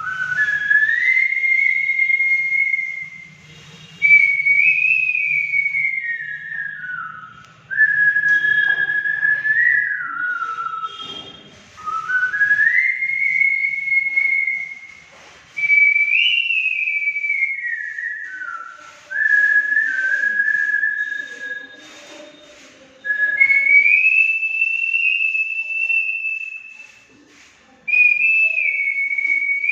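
A man whistling a melody: a single clear tone that steps and slides up and down in pitch, in phrases of a few seconds each with short breaks for breath between them.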